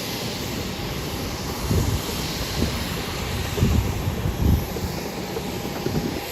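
Jet airliner engines running: a steady hiss with uneven low rumbles swelling and fading.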